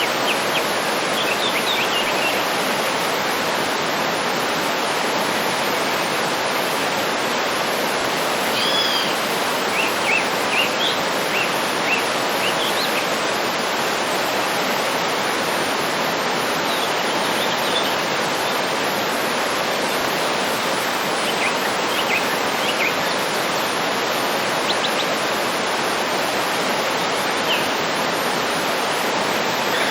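A waterfall's steady rush of falling water, with songbirds chirping and whistling on and off above it.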